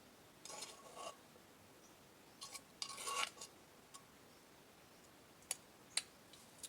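Eating sounds: two short bursts of scraping and rubbing, like utensils and food on a plate, then two sharp clicks near the end.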